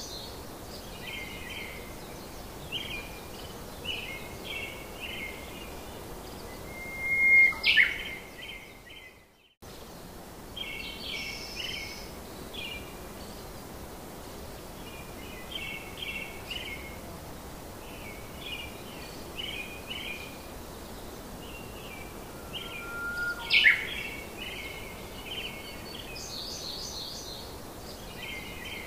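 Birdsong ambience: repeated clusters of short chirps over a steady hiss, with a louder rising whistle twice, about sixteen seconds apart. The sound briefly drops out about nine seconds in.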